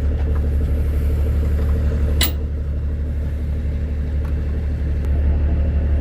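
Big diesel truck engine idling steadily with a deep, even rumble. A single sharp click about two seconds in.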